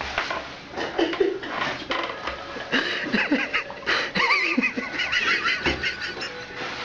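People laughing, in repeated bursts of giggling and chuckling, strongest in the middle of the stretch.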